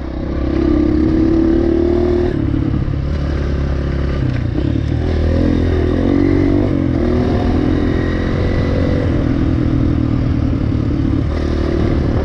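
Single-cylinder four-stroke enduro dirt bike engine running under throttle through soft sand. Its pitch rises and falls unevenly as the throttle is worked.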